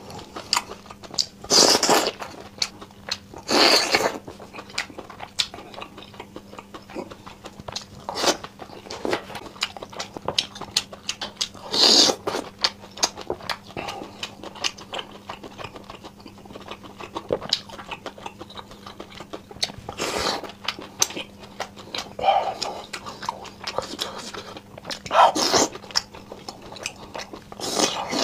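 Close-miked eating of chewy spicy seafood from skewers: wet chewing with many small sticky clicks, and louder bites every few seconds. A faint steady low hum runs underneath.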